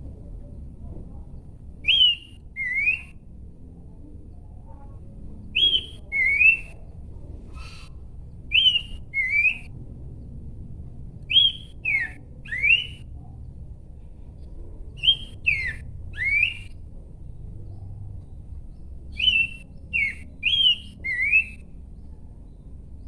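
Horsfield's babbler (pelanduk semak) singing: short phrases of two to four clear whistled notes, each note a quick slur in pitch, repeated about every three to four seconds over a low background hum.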